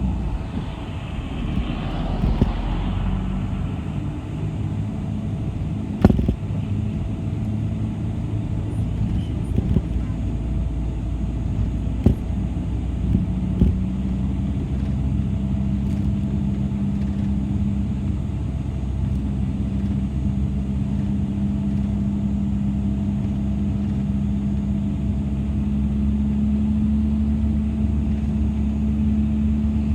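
City bus engine running with a steady low drone. Its note strengthens about halfway through and rises slowly to the end as the bus gathers speed. A few sharp knocks and rattles come through along the way.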